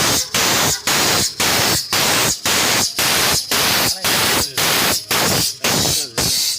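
Loud hissing noise in regular pulses, about two a second, each cut off by a short break.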